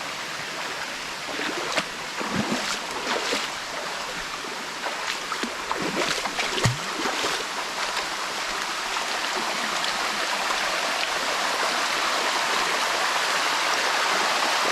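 Water rushing over the rocks of a cascading waterfall, a steady hiss, with irregular splashes and gurgles during the first half. The rush grows louder near the end.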